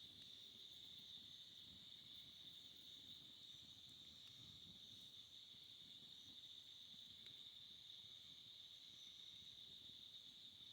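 Faint, steady insect chorus: a continuous high trill that holds unbroken throughout.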